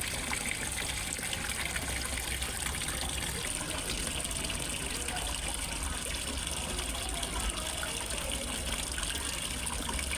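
Water splashing and trickling steadily into a fish pond, as from a small waterfall, with a continuous even rush.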